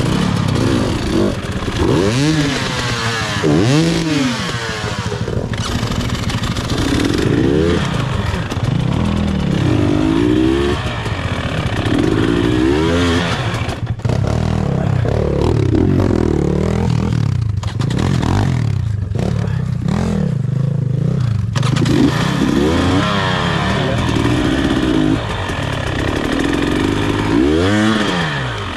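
Enduro motorcycle engine revving up and down again and again, the throttle worked in repeated bursts as the bike tries to get over a difficult obstacle on the trail.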